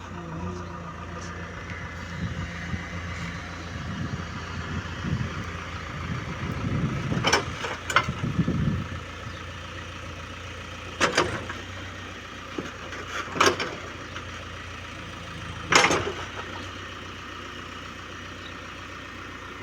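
Diesel engine of a JCB 3DX backhoe loader running steadily, its note swelling for a few seconds in the middle, with five sharp knocks spread through it.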